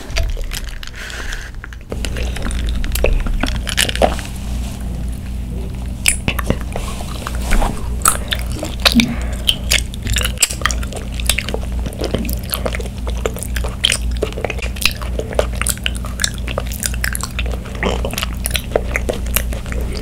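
Close-miked chewing of tapioca pearls from taro bubble tea: a steady run of wet mouth clicks and smacks, over a constant low hum.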